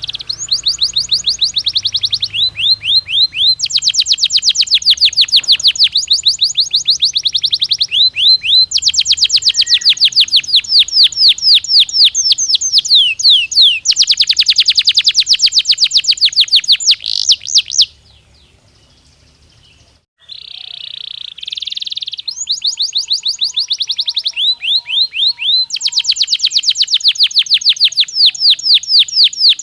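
Domestic canary singing: long rolling trills of rapidly repeated, sweeping high notes, one phrase running into the next. A pause of about two seconds comes after the middle, then the trills resume.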